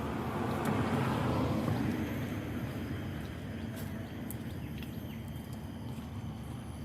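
Road traffic: a vehicle passing, loudest about a second in and then fading away, over a low steady hum.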